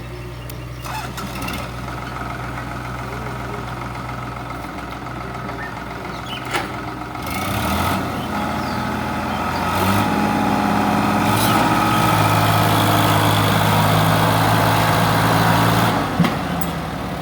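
Heavy diesel engine running steadily at low revs, then revving up about seven seconds in and running hard under load, easing back near the end. A couple of short metallic knocks, about six and sixteen seconds in.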